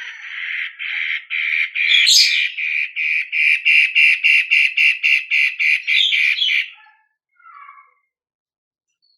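Long-tailed shrike (cendet) singing a fast, harsh series of evenly repeated notes, about three a second, which stops abruptly about seven seconds in, followed by a couple of short faint notes.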